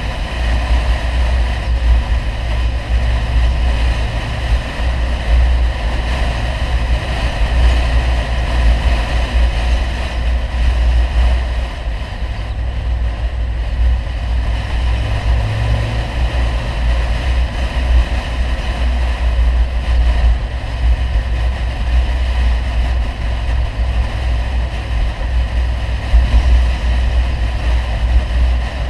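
Audi 100 2.3 quattro's five-cylinder engine with an aftermarket CAC exhaust, running steadily with a deep drone.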